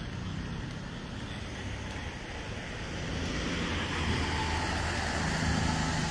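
A motor vehicle's engine running with a steady low hum and road noise, getting louder over the second half.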